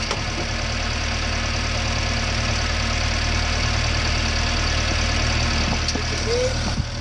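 1953 Willys CJ3B's four-cylinder engine idling steadily, its first run after a clutch replacement.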